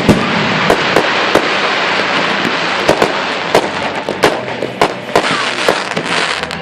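Fireworks display going off: a continuous crackling hiss punctuated by a dozen or so sharp bangs at irregular intervals.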